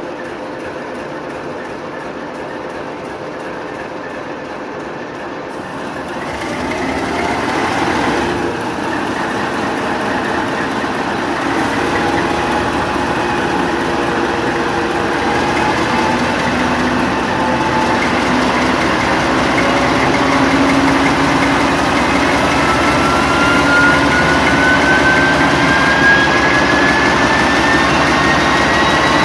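TEP70 locomotive's turbocharged diesel engine running under load in the engine room; it grows louder about six seconds in as the engine is notched up. In the second half a turbocharger whistle rises steadily in pitch as the turbine spools up.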